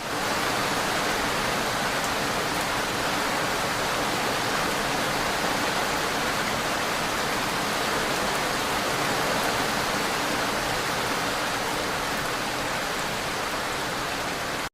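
Steady, even rush of water, unbroken throughout, which cuts off suddenly at the end.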